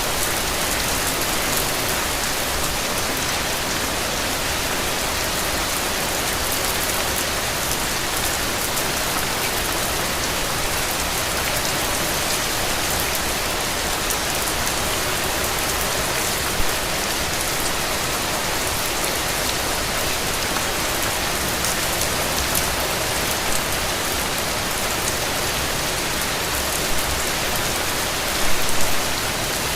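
Steady rain falling on a hard surface, an even hiss dense with small drop ticks, with a few louder single drops, one about midway and a short cluster near the end.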